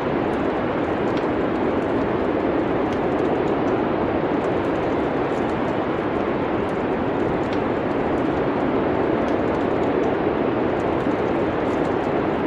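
Steady rushing wind with faint, scattered crackles of a wood fire.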